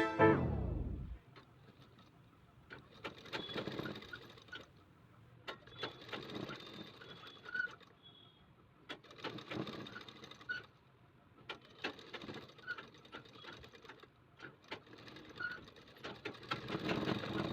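Sewing machine stitching in about six short runs of a second or two each, stopping briefly between runs.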